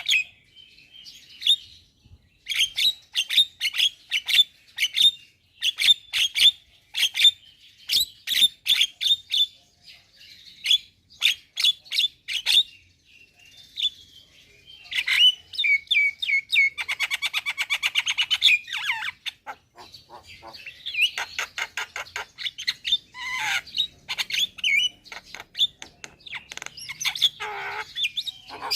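Javan myna (jalak kebo) singing a long, varied song: runs of quick, sharp clicking notes, a buzzy rattle about two-thirds of the way through, and harsh squawks.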